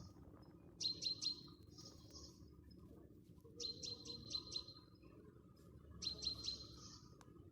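A small songbird singing, three times: each phrase is a few quick sharp notes followed by a short buzzy trill, repeated about every two and a half seconds.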